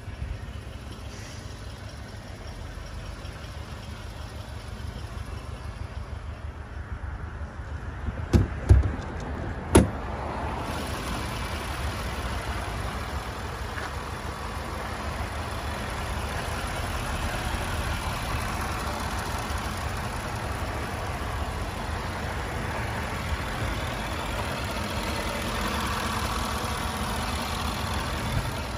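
Range Rover's 3.0-litre supercharged V6 idling steadily. Three sharp thumps come about eight to ten seconds in, after which the engine sound grows fuller and louder.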